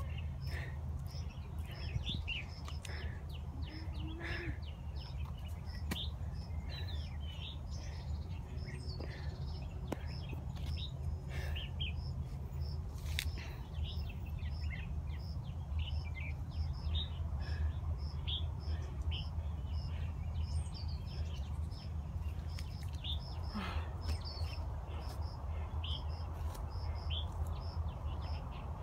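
Woodland birds chirping, with many short calls scattered throughout and a high note repeating at an even pace, over a steady low rumble.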